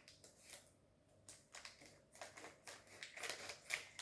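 Faint crinkling and clicking of plastic packaging as a tub of kinetic sand is opened, the small crackles coming more often toward the end.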